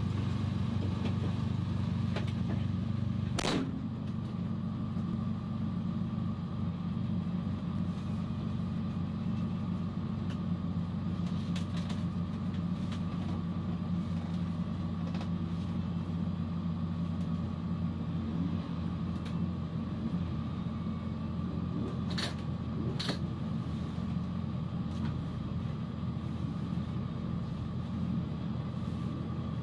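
Toyota Starlet Glanza EP91 race car's engine idling steadily, heard from inside the stripped cabin. A click comes about three and a half seconds in, after which the idle runs a little quieter, and two short clicks come about two-thirds of the way through.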